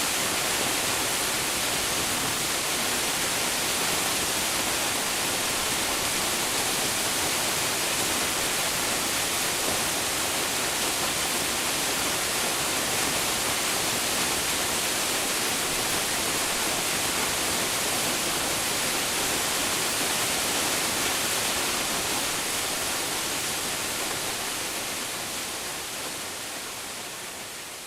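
Waterfall crashing, a steady, dense rush of falling water. It fades out over the last several seconds.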